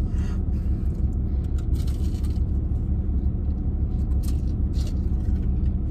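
Steady low rumble of a parked vehicle's idling engine, heard inside the cabin, with a few faint crisp crunches from a bite of a rice-puff-coated corn dog, one just after four seconds in.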